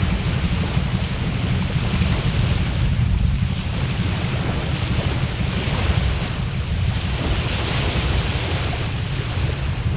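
Wood fire burning in a Coleman fire disk, with wind buffeting the microphone in a steady low rumble and a few faint crackles in the second half. A steady thin high-pitched tone runs underneath.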